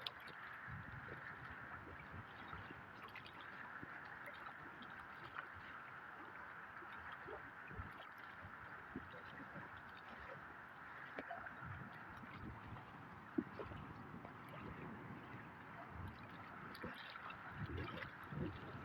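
Gentle water sounds: soft gurgling and small splashes over a faint, steady rushing.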